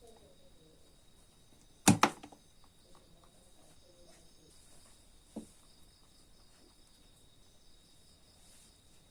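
Steady high-pitched chirring of crickets, with two sharp knocks close together about two seconds in and a softer knock a little past five seconds.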